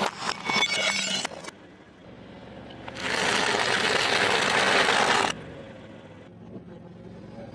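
Dense crisp crunching and crackling for about a second, food being crushed under a car. About three seconds in a steady hiss starts, lasts about two seconds and cuts off suddenly.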